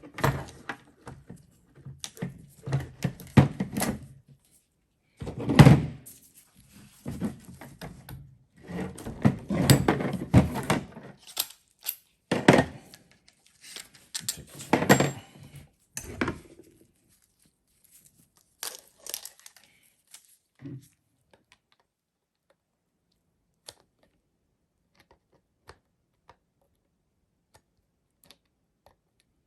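Irregular clicks, knocks and clattering of metal starter-motor parts and hand tools being handled during disassembly. The sounds are dense at first and thin to a few scattered clicks about sixteen seconds in.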